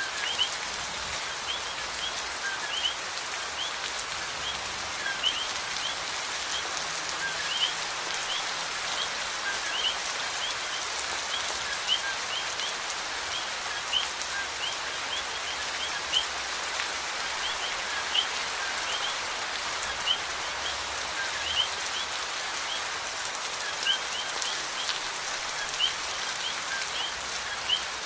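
Steady rain falling, with a sharper drip or tap about every two seconds and short high chirps repeating over it.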